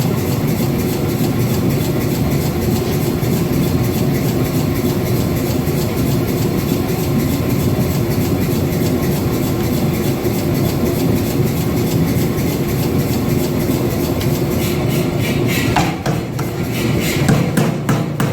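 Power hammer pounding hot steel between flat dies in a fast, continuous run of blows, drawing out an integral knife. The pattern turns to fewer, separate strikes near the end.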